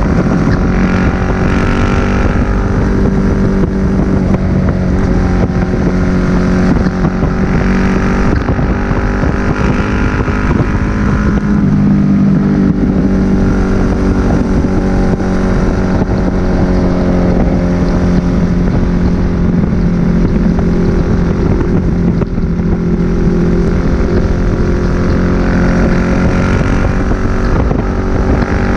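Suzuki SV1000S V-twin with a Leo Vince aftermarket exhaust, running at a fairly steady cruising speed, its pitch rising and falling slightly. Wind buffets the microphone.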